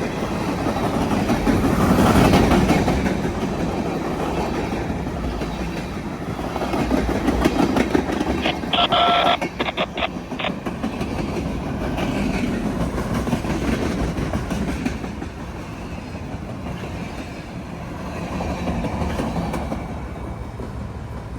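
Freight train cars rolling past, with a continuous rumble and clatter of wheels over the rail joints. A short pitched tone with a few sharp clicks cuts in about halfway through.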